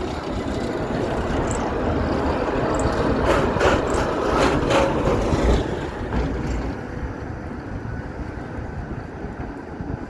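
Ganz tram pulling away, its motors and wheels running on the rails. It grows louder to a peak with a quick run of knocks from the wheels about three to five seconds in, then fades as it moves off.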